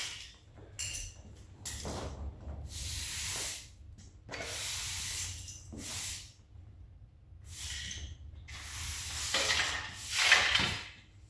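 Broom sweeping up debris on a shop floor: a series of irregular swishing strokes with short pauses between them.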